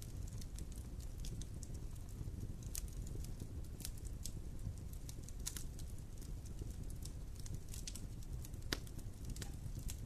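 Wood fire burning with irregular sharp crackles and pops over a steady low rumble, one louder pop near the end.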